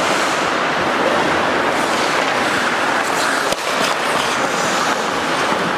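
Ice hockey play: steady scraping of skate blades on the ice, with one sharp knock about three and a half seconds in.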